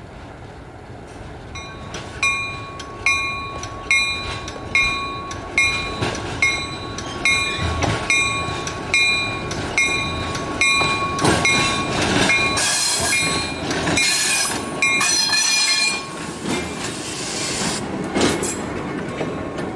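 A bell starts ringing about two seconds in, struck a little more than once a second, over the running train. Several loud hissing bursts come near the middle and again near the end.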